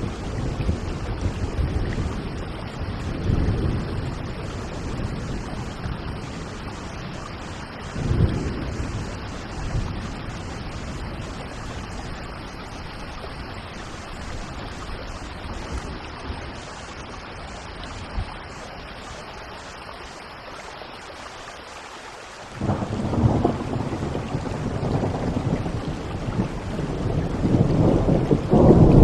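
Steady heavy rain with rolling thunder. Several low rumbles come in the first third, then the storm eases briefly. About three-quarters of the way through a loud thunderclap breaks in and rumbles on, growing louder to the end.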